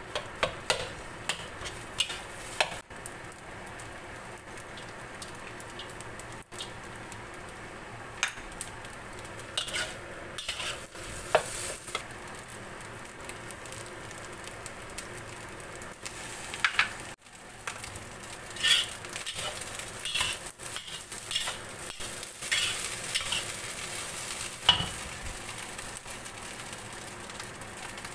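Fried rice sizzling steadily in a wok, with a metal spatula scraping and clacking against the pan as the rice is stirred and tossed.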